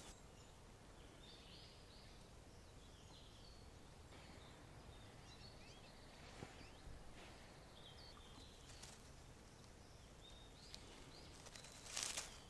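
Quiet woodland ambience with faint bird chirps here and there. Near the end comes a brief rustle of leafy stems being handled.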